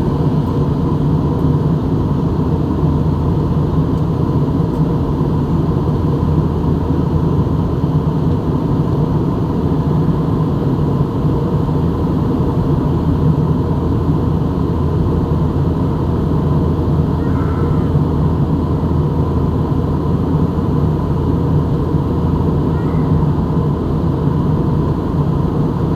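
Steady drone of an airliner cabin in flight: a deep, even rush of engine and airflow noise with a faint constant whine on top.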